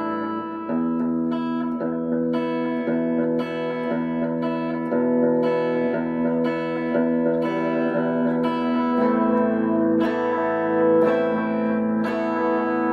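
Guitar playing: chords plucked or strummed again about every half second, ringing on between strokes, changing chord a few times.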